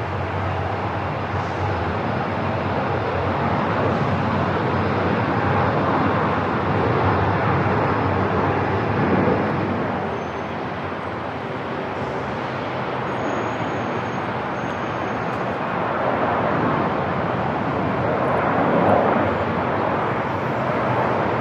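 Airport ambience: a steady rushing noise of aircraft engines that swells and eases over several seconds.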